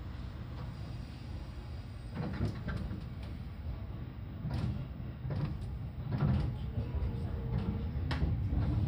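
Seibu 4000 series train heard from inside the car as it pulls away: a low rumble that grows louder, broken by a few sharp knocks and clunks at uneven spacing.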